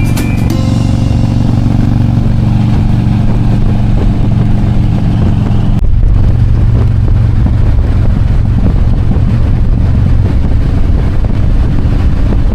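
Harley-Davidson Road King's V-twin engine running steadily while riding, with an abrupt break about six seconds in where the sound cuts to another stretch of riding.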